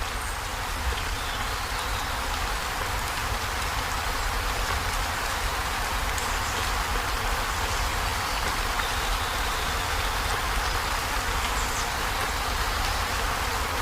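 Heavy rain falling on a corrugated zinc roof: a steady, dense patter with a low rumble underneath.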